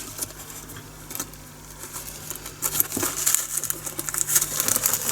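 Small resin diamond-painting drills clicking and rattling against plastic as they are tipped and shaken into a storage container. The run of quick little clicks grows busier about halfway through.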